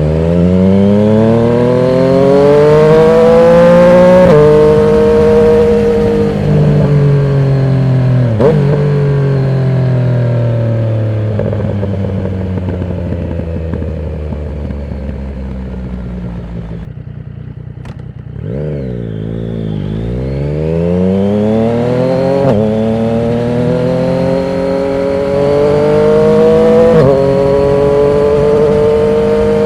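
Yamaha MT-09 inline-three engine through a Termignoni exhaust with no dB killer, loud under acceleration. The revs rise through the gears with upshifts about 4 and 8 seconds in, then fall away as the bike slows, dipping lowest around the middle. It then pulls hard again with two more upshifts before settling to a steady run near the end.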